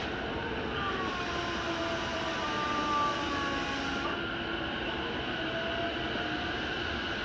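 Cabin noise of a Keihin-Tohoku line E233-series commuter train running slowly: a steady rumble with faint whining tones that slide slowly down in pitch between about one and four seconds in.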